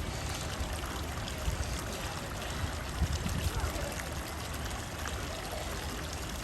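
Steady trickling, splashing water, like a small stream or water feature, with faint indistinct voices in the background.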